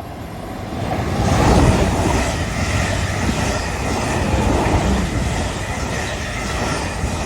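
Two coupled Class 444 electric multiple units passing through a station at speed. The wheel and rail noise builds about a second in and stays loud as the carriages go by.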